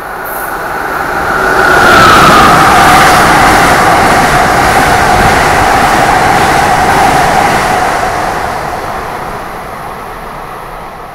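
A train passing: the rail noise builds over about two seconds, holds, then fades away near the end, with a whine that drops in pitch as it goes by.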